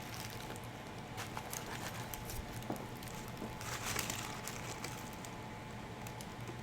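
Quiet handling noise: scattered small clicks and light rustles over a faint steady hum, with a brief louder rustle about four seconds in.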